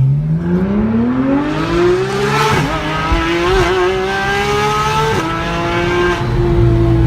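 Porsche 991 GT3's flat-six running through a Fi Exhaust aftermarket system, revving loud. The pitch climbs steadily for about two and a half seconds as it accelerates, wavers briefly, then holds high. It drops sharply about five seconds in and eases lower.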